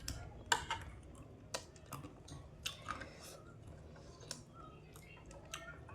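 Close-up eating sounds: soft, irregular crunches and clicks from chewing a crisp snack.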